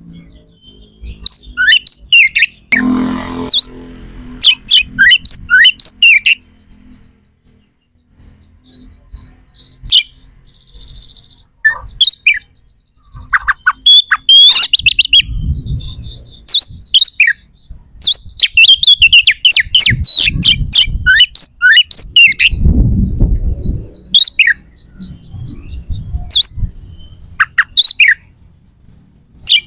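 Bird chirping loudly in bursts of quick, sweeping chirps, densest in the middle and later part, with a few low rumbles in between.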